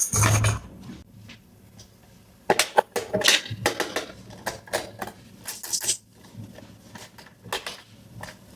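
Small hard plastic toy pieces being handled: a dull thump at the start, then a run of light clicks, taps and rustles from a few seconds in.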